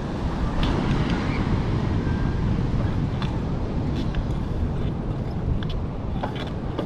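Wind buffeting a chest-mounted action camera's microphone on a moving e-bike: a steady low rumble, with a few faint clicks and ticks scattered through it.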